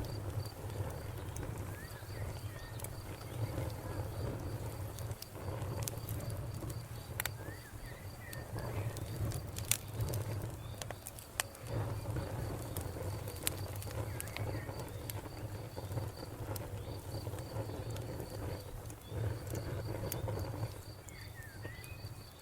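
Wood fire burning with a low rumble and scattered sharp crackles and pops, one louder pop about ten seconds in. A cricket chirps steadily in the background.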